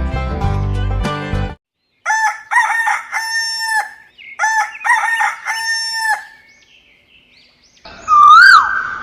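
Background music cuts off about a second and a half in. A rooster then crows twice in a row, each crow a few short notes ending in a long held note. Near the end a loud whistle-like tone swoops up and then down.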